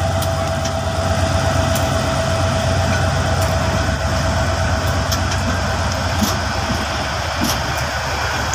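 Diesel-hauled passenger train rolling slowly past: a steady low diesel drone with a steady whine, and scattered clicks from the coach wheels on the rails.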